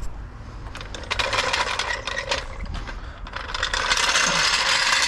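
Metal clinking, rattling and scraping, a rapid irregular run of small clicks that grows louder toward the end: loose metal tools or parts being handled and rummaged through.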